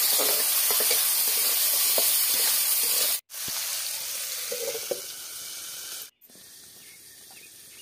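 Chopped vegetables sizzling in hot oil in an iron kadai, with the spatula scraping and clicking as they are stirred. After a cut the sizzle is quieter and a steel plate clinks as it is set over the kadai as a lid. Near the end only a faint, muffled sizzle is left under the lid.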